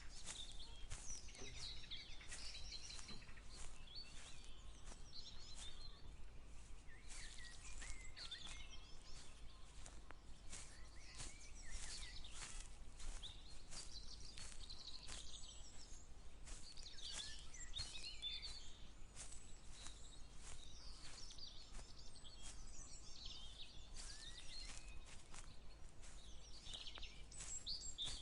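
Songbirds singing and chirping, with a person's footsteps walking at a steady pace, about two steps a second.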